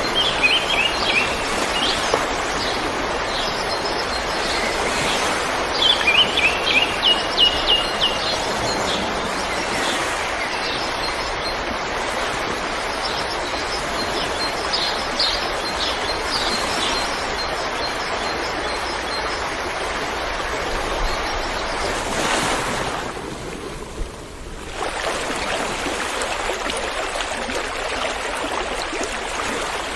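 River water flowing steadily, with small birds chirping over it: a quick run of repeated notes about six seconds in, and scattered chirps near the start and around the middle. The water sound drops away briefly about two-thirds of the way through, then returns.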